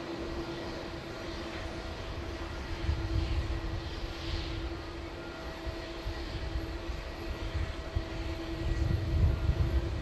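Jet airliner engines running, a steady hum over a low rumble that swells about three seconds in and again near the end.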